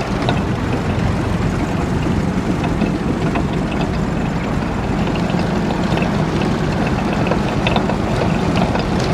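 Niva combine harvester running steadily, with faint irregular knocks from its ground-drive variator, a fault that calls for repair.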